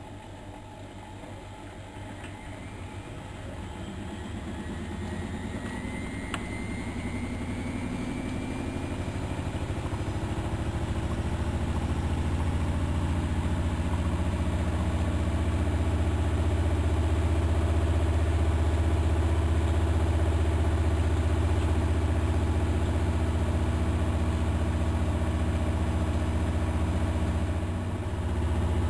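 Miele Novotronic Meteor 2200 washing machine spinning up: a low hum and a faint rising motor whine grow steadily louder over about twelve seconds, then the drum holds a steady spin. Its drum dampers are worn, by the owner's account.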